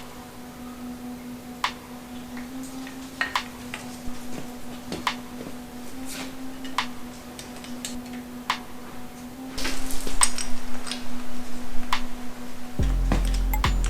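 Small metal and plastic engine parts clicking and clinking as fuel injectors are handled and fitted into a small-block Ford intake: scattered sharp clicks that grow busier about ten seconds in, over a steady low hum.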